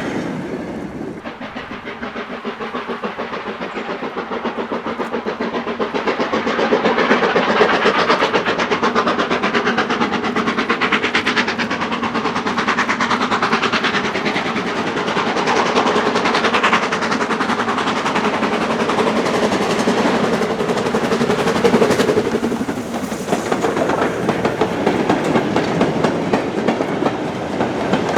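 A BR Standard Class 9F 2-10-0 steam locomotive hauling a mixed goods train past, its exhaust and the wagons making a fast continuous clatter. It grows louder over the first several seconds, then holds steady.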